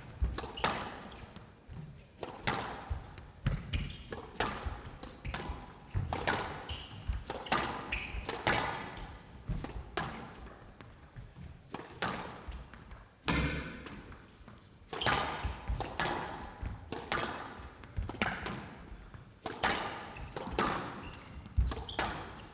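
Squash rally: the ball is struck by rackets and cracks off the court walls about once a second, each hit echoing in the court.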